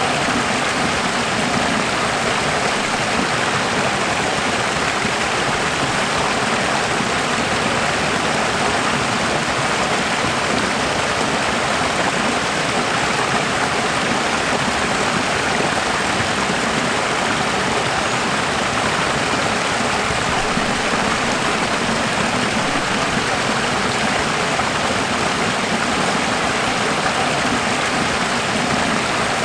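Running water flowing steadily, a constant even rushing sound with no breaks or changes.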